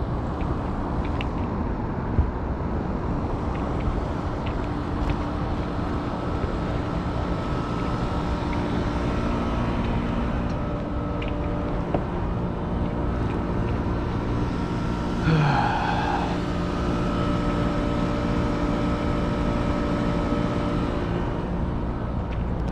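Steady mechanical hum of rooftop heat pump and condensing units running, several steady tones over a low rumble, with a brief pitched tone about fifteen seconds in.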